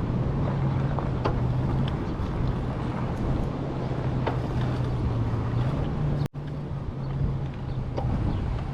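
Rad Rover e-bike riding along with a steady low hum from its rear hub motor that rises slightly in pitch about six seconds in, over wind rush on the chest-mounted camera and a few light ticks from the tyres and frame. The sound cuts out for an instant just after the pitch rise.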